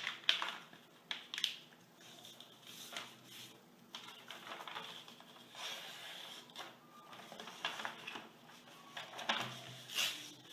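A sheet of printer paper rustling and crinkling in the hands as the excess strip is cut off to leave a square, in irregular scratchy strokes and small clicks.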